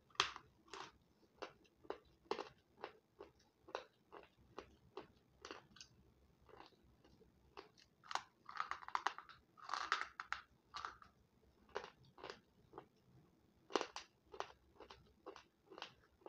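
A person biting and chewing a crumbly white food: a steady run of crisp crunches, two or three a second, with a denser crackling stretch about eight to eleven seconds in and one loud crunch near fourteen seconds.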